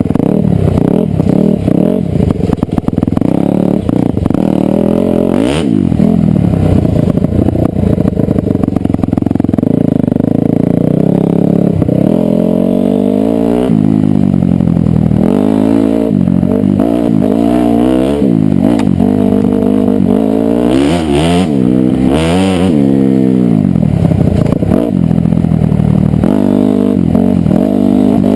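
Dirt bike engine revving up and down continually as it is ridden, the pitch rising and falling with the throttle, more widely after about twelve seconds, with some clatter from the bike.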